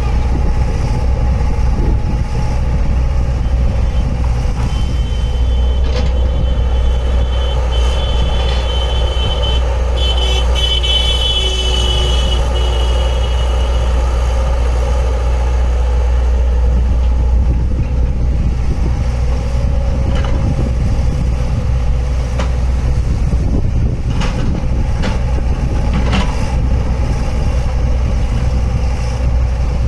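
Heavy machinery engine, a tractor or JCB-type digger, running steadily with a deep continuous drone. A thin high whine comes and goes for several seconds in the first half.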